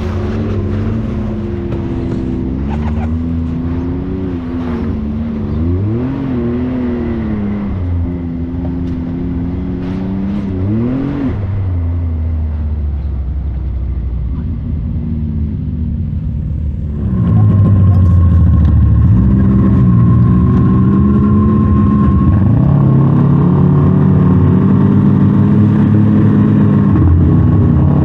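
Side-by-side UTV engine running and revving, its pitch rising and falling repeatedly as the throttle comes on and off. About two-thirds of the way through the sound jumps louder and a steady high whine runs on top of the engine.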